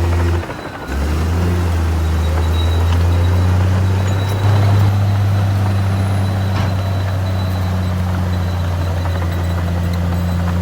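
Heavy diesel engine of earthmoving machinery running with a steady low drone. It drops away briefly about half a second in, and gets a little louder about four and a half seconds in.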